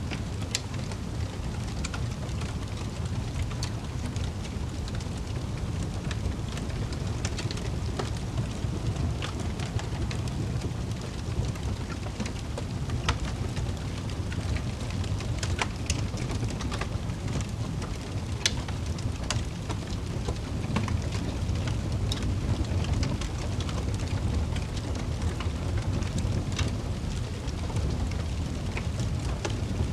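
Wood fire in a fireplace crackling, with sharp pops scattered irregularly over a steady low rumble.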